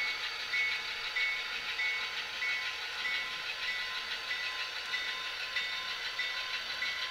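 HO-scale Athearn Genesys GP40-2's SoundTraxx Tsunami2 sound decoder playing locomotive sounds through its small onboard speaker: a steady hiss with a short high tone repeating about every 0.6 s.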